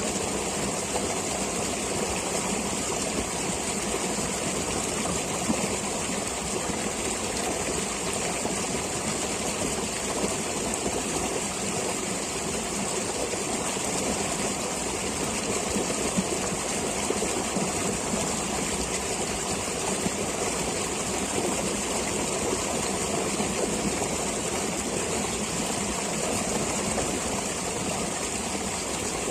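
Flowing stream water rushing steadily, an even hiss with no change throughout.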